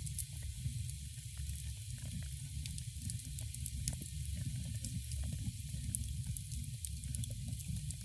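Wood fire in a fireplace crackling and hissing, with many small irregular pops and a low steady rumble beneath.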